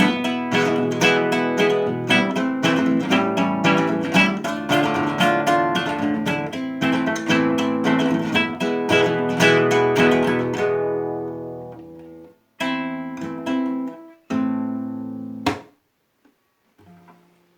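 Acoustic guitar strummed in a steady rhythm. About ten seconds in it slows to two final chords, each left to ring out, followed by a short damped strum near the end.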